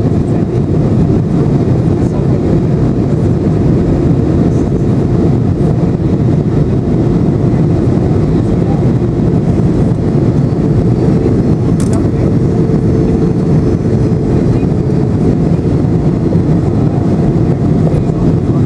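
Steady roar of a Boeing 737-800's CFM56 turbofan engines and the rushing airflow, heard inside the passenger cabin in flight. A single click comes about twelve seconds in.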